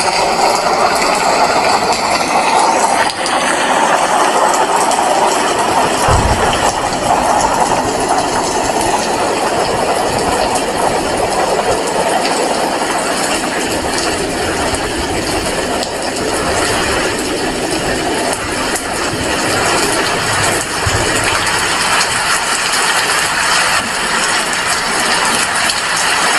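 Heavy rain falling steadily, a dense even hiss, with brief low thumps about six seconds in and again around twenty-one seconds.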